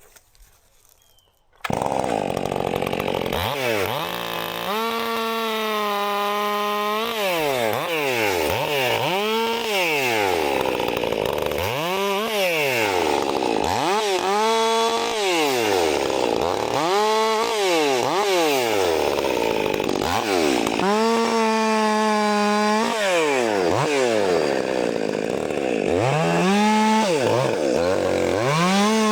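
Stihl MS 400 C two-stroke chainsaw running at high revs after a second or two of near silence, its pitch repeatedly dipping and climbing back, as when the chain is loaded in a cut through wood.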